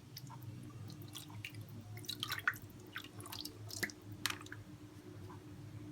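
Scattered wet clicks and squishes of marinated chicken pieces being handled in a bowl, over a steady low hum.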